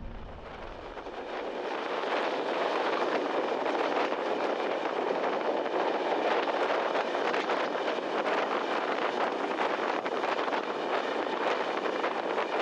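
Passenger train running through a tunnel, heard from outside the carriage: a steady rush of wind and wheel noise that builds over the first couple of seconds, then holds.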